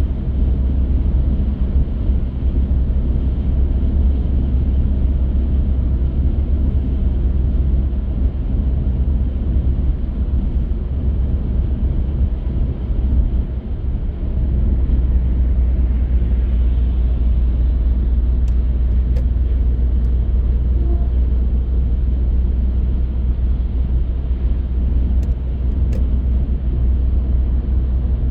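Car on the move: a steady low rumble of engine and tyre road noise, dipping briefly about halfway through, with a few faint clicks in the second half.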